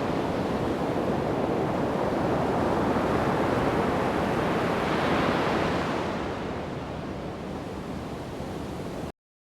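Surf breaking and washing up on a sandy beach, swelling about halfway through and then easing off. It cuts off suddenly to silence just before the end.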